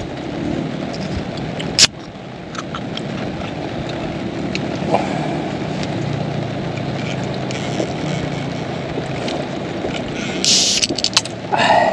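Heavy rain falling steadily, a dense even hiss. There is a sharp click about two seconds in and a few brief louder rustles or clatters near the end.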